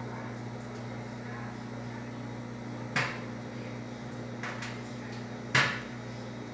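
Electrolux ME41X microwave oven running with a steady low hum, broken by three short sharp clicks or knocks, the loudest one near the end.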